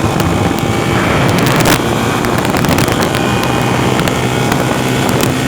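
A motor vehicle's engine running steadily while moving, with heavy wind noise on the microphone and scattered clicks.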